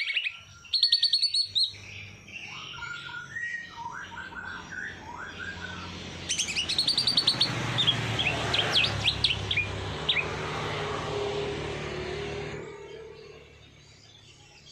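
Songbirds chirping and singing in quick trills, with lower sliding notes in between. A steady rushing noise rises under the birdsong about six seconds in and fades out a little before the end.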